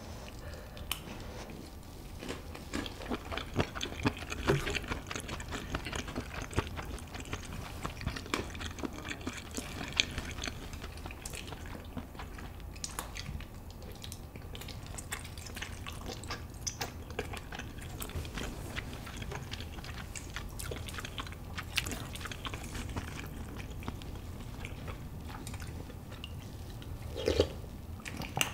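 A person chewing malatang close to the microphone: wet chewing with many small mouth clicks. Near the end there is a slurp of broth from a spoon.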